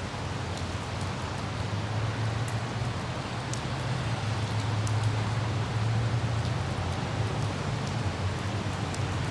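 Light rain falling steadily over the low, even rumble of a car driving, with a few faint scattered droplet ticks.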